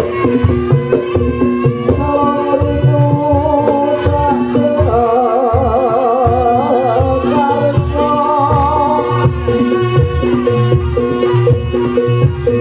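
Live Javanese barongan music: hand drums beating steadily under sustained ringing pitched tones. A wavering melodic line with vibrato enters about two seconds in and fades around nine seconds.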